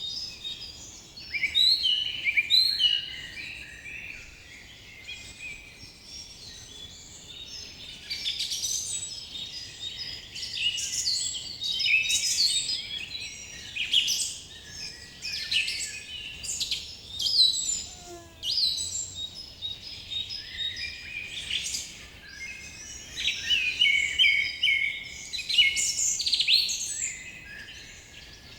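Many small birds singing and chirping together in a dense chorus of overlapping high trills and chirps, rising and falling in waves, over a faint steady hiss.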